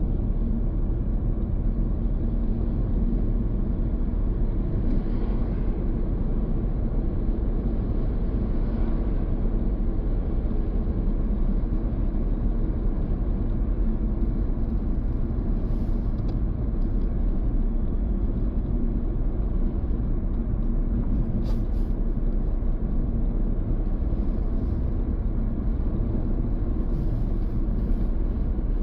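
Car on the move: a steady low rumble of engine and tyre noise.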